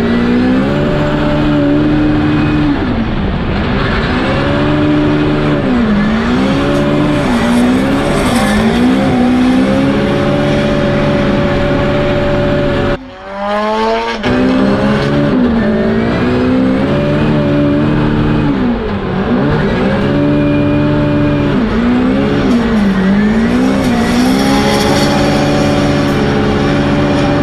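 Nissan Silvia S15 drift car's engine revving up and down over and over through a drift run, with tyre noise underneath. About halfway, the sound drops out briefly, then the run goes on with the same rise and fall of revs.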